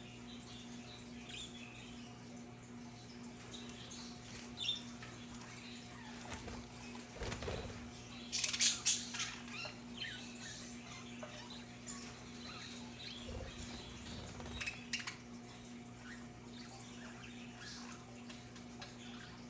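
Budgerigars chirping and twittering in scattered short calls, with the loudest burst of chirps about halfway through. A few soft knocks and a steady low hum lie underneath.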